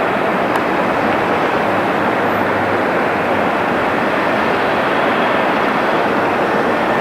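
Steady, loud jet engine noise from a passing jet airliner, an even rushing roar with no break or change.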